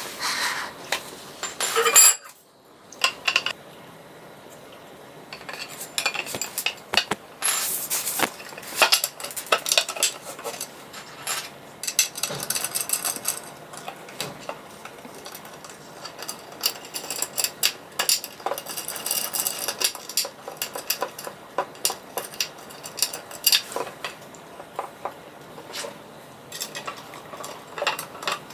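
Irregular clinks and clatters of small hard objects being handled and set down, with a short quiet gap about two seconds in.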